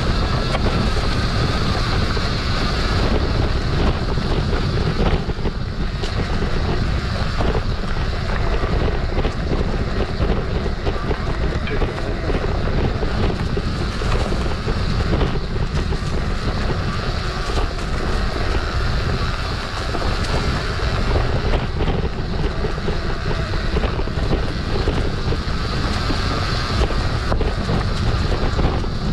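Wind rushing over the microphone with a steady roar, broken by frequent small clicks and knocks.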